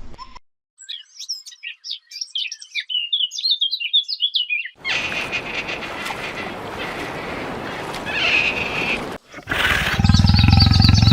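A small bird twittering in a quick run of high chirps for about four seconds. This is followed by a stretch of hissing noise, then a loud, low animal call that begins about a second before the end.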